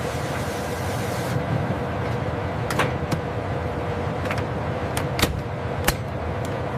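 Steady machinery hum with a held tone, typical of assembly-hall equipment, broken by about five sharp clicks or knocks in the middle and later part.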